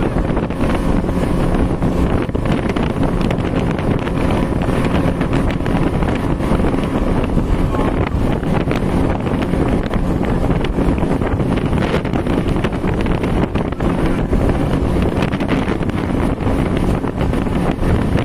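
Twin Yamaha 200 hp two-stroke outboard motors running steadily at speed on a speedboat, with heavy wind buffeting the microphone.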